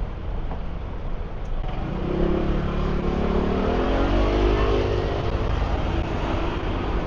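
A motor vehicle accelerating along the street over a steady low traffic rumble. Its engine note builds from about two seconds in and shifts in pitch, is loudest around the middle, then eases.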